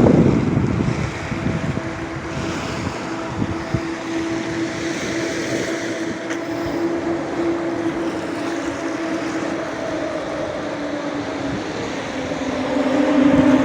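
Black Sea surf washing onto the beach, with a louder surge of a wave at the start. Under it a steady engine hum grows louder and drops slightly in pitch near the end.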